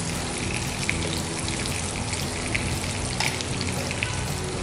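Small batter-coated field crabs deep-frying in hot oil in a pan: a steady sizzle with many scattered small crackles and pops.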